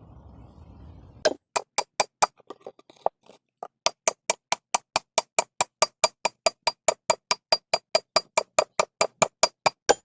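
Rapid, evenly spaced hammer strikes on metal, each with a short ring. They start a little over a second in, pause briefly, then go on steadily at about four or five a second.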